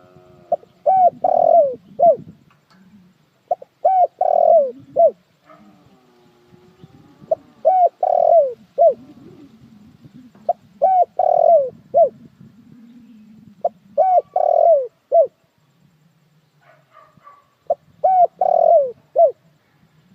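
Spotted dove cooing: six repeated calls about three to four seconds apart, each a short run of notes with a longer, falling note in the middle.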